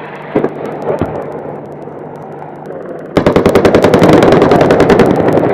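Steady helicopter noise, then about three seconds in a long burst of rapid, evenly spaced shots from an AH-64 Apache's 30 mm chain gun firing on a ground target.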